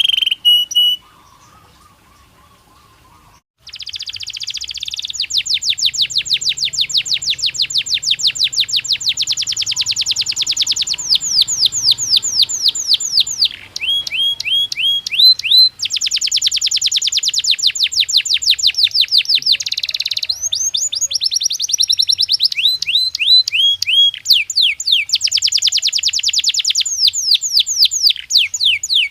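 Canary singing: a long song of fast trills, each made of rapidly repeated notes, moving from phrase to phrase, with a few slower rising whistled notes in between. The song stops briefly about a second in and resumes a couple of seconds later.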